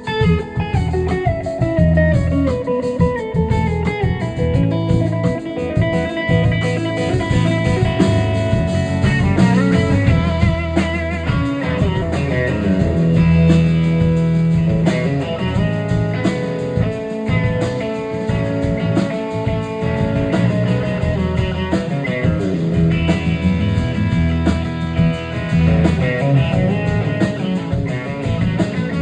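Live band playing blues-rock, an electric guitar carrying the melody over bass and drum kit. The guitar runs downward in pitch in the first few seconds.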